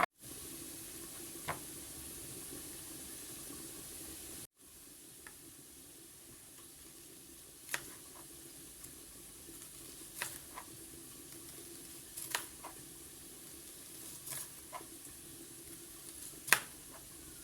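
Oil sizzling steadily in a frying pan, with a sharp knock every two seconds or so from a knife striking the chopping board while onions are cut into rounds. The sound drops out for an instant about four and a half seconds in.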